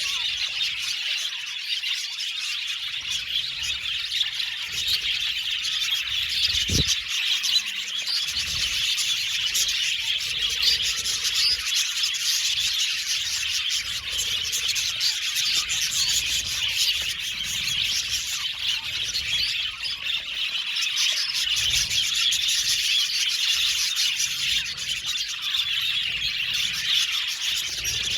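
A colony of budgerigars chirping and chattering continuously, many birds calling over each other. A brief low thump comes about seven seconds in.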